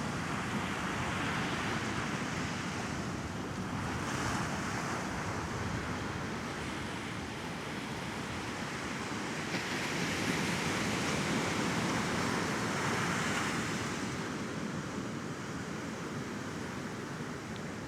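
Small sea waves washing onto a sandy beach, a continuous surf that swells louder about ten seconds in and eases off again.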